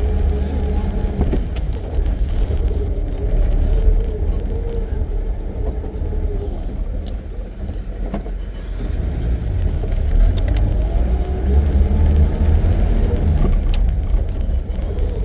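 Safari jeep's engine running as it drives along a dirt forest track, easing off about halfway and picking up again after, with a few knocks and rattles.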